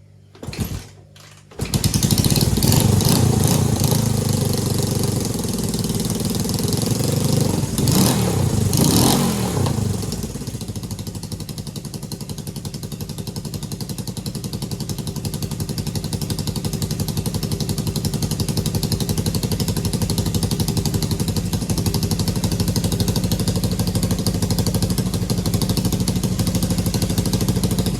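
Honda CJ360 motorcycle's air-cooled parallel-twin engine starting: a brief catch about half a second in, then it fires and runs about a second later. It is revved twice around eight seconds in, then settles into a steady fast idle.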